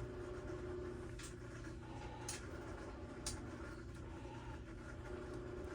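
A few faint, light clicks about a second apart over a steady low hum: small parts being handled during bench work on a trimmer's fuel system.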